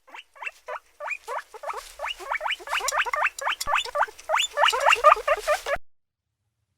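A rapid run of short, high squeaky calls from small animals, several a second and overlapping, cutting off suddenly near the end.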